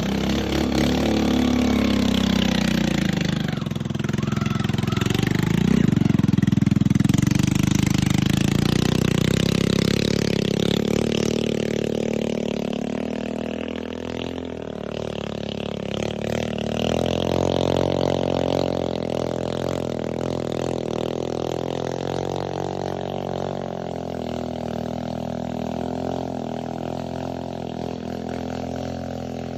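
Enduro dirt bike engine running under changing throttle, its pitch rising and falling as it rides.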